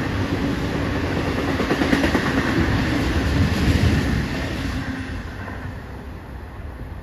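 BNSF double-stack intermodal freight train's container cars rolling past on steel wheels, the noise fading away once the end of the train has passed, about four or five seconds in.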